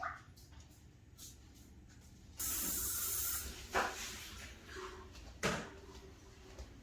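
A hissing spray lasting about a second, cut off sharply, followed by two sharp knocks.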